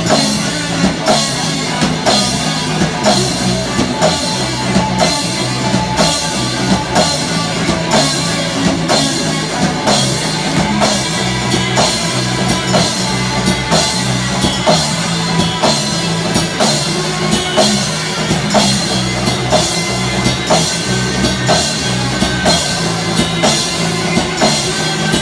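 Rock band playing live: a drum kit keeps a steady beat of about two strong hits a second under guitar.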